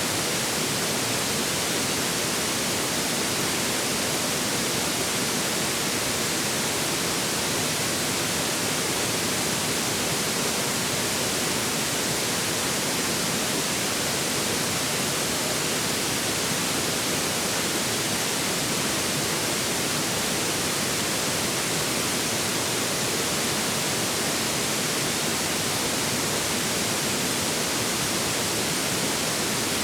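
A river flowing, giving a steady, unbroken rush of water that never changes in level.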